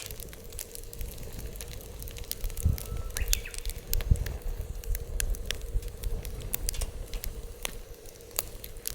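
Wood fire crackling, with sharp pops at irregular intervals, over a low rumble of wind on the microphone that swells a little a few seconds in.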